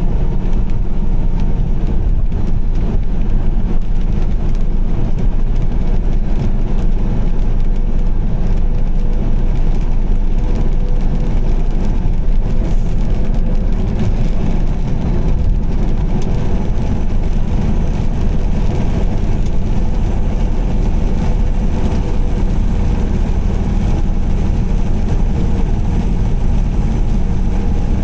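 Car driving at steady speed: an even low rumble of engine and tyres on the road, with a faint steady hum above it.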